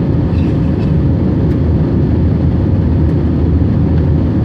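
Airbus A321-231 jet engines (IAE V2500) running at high power during takeoff: a loud, steady, deep rumble with a faint steady tone above it.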